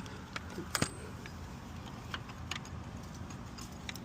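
Scattered light metallic clinks and ticks from hardware being handled, a sharper pair about a second in, over a steady low hum.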